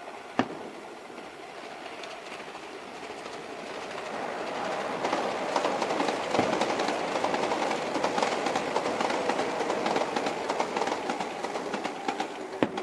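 A train passing close by, its wheels clattering rapidly over the rails, building up over several seconds and then fading. Two sharp bangs of firework shells, one about half a second in and one near the end.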